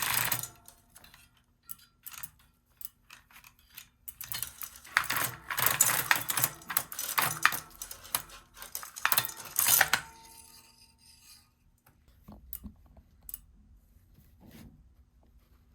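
Hard objects being handled, clicking and clattering, likely chain-cleaning gear. It is busiest and loudest from about four to ten seconds in, then thins to a few scattered clicks.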